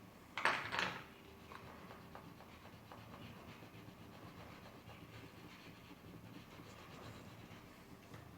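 Crayon rubbing and scratching on paper as an area is coloured in. It is faint, with two louder scratchy strokes about half a second in.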